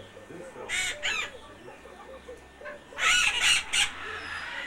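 Birds calling: a steady run of short, low clucking notes, with loud harsh squawks about a second in and again at about three seconds.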